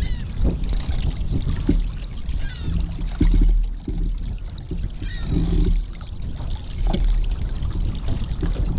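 Gusty wind buffeting the microphone over water splashing and slapping against a small sailboat's hull, with scattered knocks from the boat.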